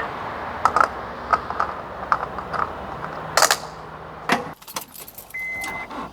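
Keys jangling with light clicks, a louder clatter about three and a half seconds in, then a knock after which the outside noise drops away. A single high steady beep sounds near the end.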